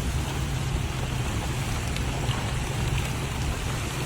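A car moving at steady speed: a low, even engine hum with road noise.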